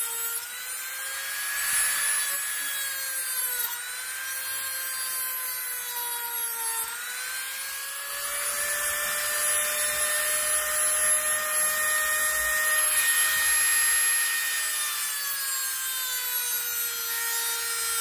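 Small high-speed electric cutting tool running steadily, its motor whine dipping and recovering in pitch several times as it bears into the cut. It is loudest about two-thirds of the way through.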